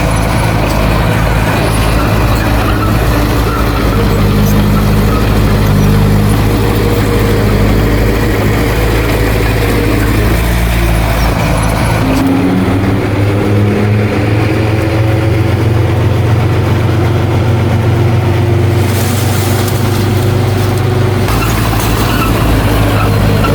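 Heavy diesel engine of earthmoving machinery running continuously, its pitch rising and falling as it works, with the sound changing abruptly about halfway through and again near the end.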